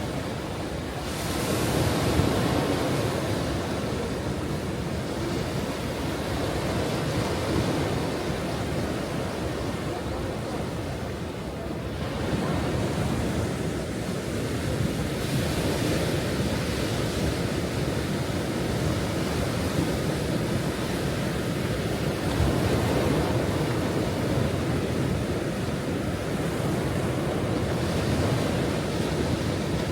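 Ocean waves washing onto a shore, a continuous surf rumble that swells and eases as sets come in, with some wind noise on the microphone.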